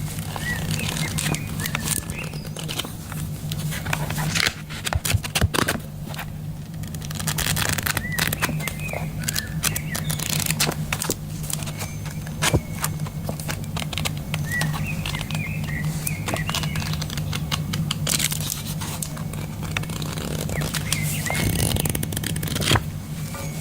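Crackling, scratching and tapping handling sounds, a quick cluster of clicks about five seconds in, over a steady low hum, with small bird chirps in the background.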